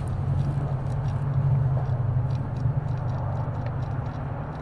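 Irregular light metallic clicks and knocks from a removed manual gearbox as its inner CV joint is rocked by hand, showing play at the differential output. A steady low hum lies under it.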